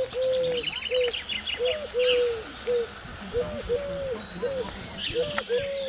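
Birdsong: a long run of short, low hooting notes, some in pairs, with higher trilling songbird phrases near the start and again near the end.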